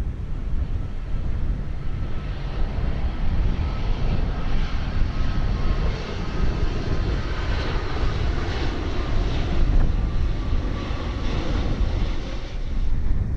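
Jet airliner flying low overhead: the engine noise swells over several seconds, peaks, then falls away sharply near the end, over a steady low rumble of wind on the microphone.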